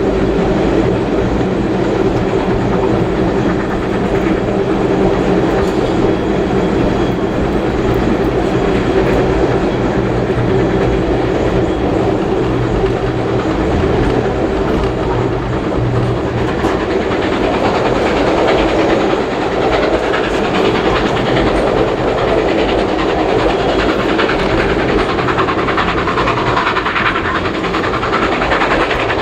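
Heritage passenger train running along the track, heard from on board: a steady, loud rumble of carriage wheels on the rails.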